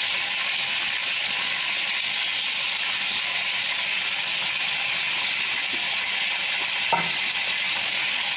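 Raw chicken pieces frying in hot oil in a wok, a steady sizzling hiss, with a single sharp clack near the end.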